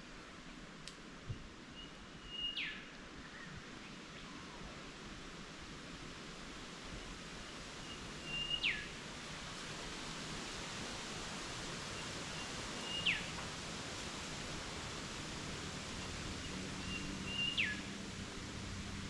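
A bird calling four times, about every four to five seconds: each call a faint held whistle that ends in a sharp downward sweep. Under it, a steady hiss of wind.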